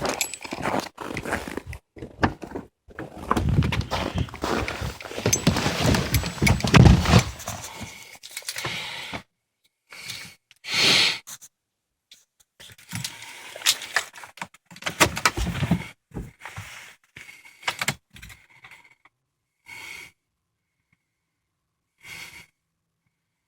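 Irregular handling noises: clicks, rustles and knocks, heaviest in the first eight seconds, then short scattered bursts broken by silences.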